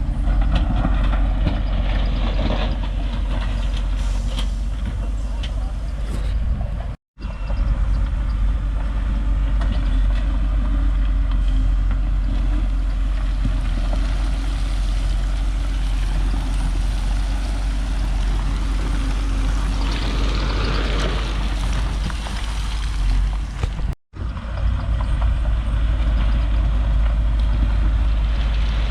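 Heavy diesel earthmoving machinery running steadily under work. The sound cuts out sharply for a moment twice, about seven seconds in and about five seconds before the end.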